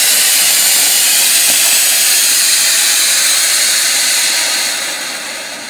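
A ground firework burning with a loud, steady hiss, fading away near the end as it burns out.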